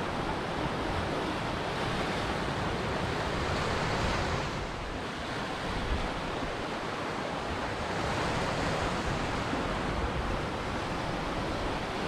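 Ocean surf washing onto a shore, a steady rush of breaking waves that eases briefly about five seconds in and builds again about eight seconds in.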